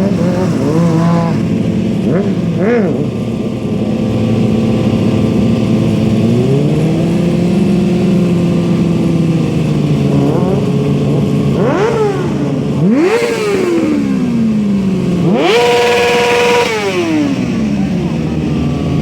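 Stunt motorcycle engine revving: several quick blips that rise and fall, a few seconds held at a steady raised speed, and near the end a second or so held at high revs before it drops back.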